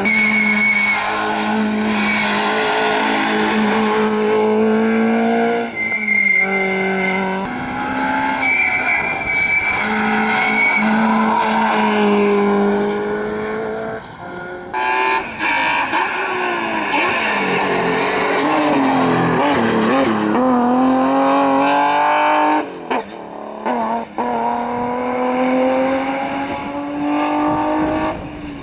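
Rally car engines at full throttle, the engine note climbing and dropping again and again with gear changes, with tyre squeal and skidding.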